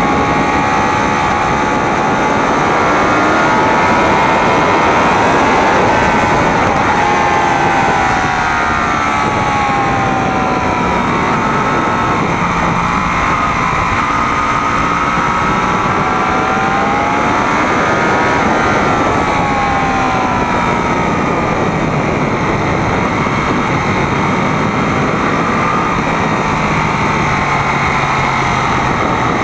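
Sportbike engine running hard at track speed, its pitch rising and falling with throttle and speed through the corners, over a steady rush of wind noise.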